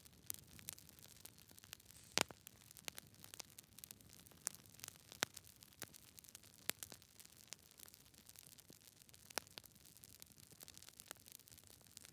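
Wood fire crackling in a fireplace: irregular sharp pops and snaps from the burning logs over a soft hiss, with the loudest pop about two seconds in.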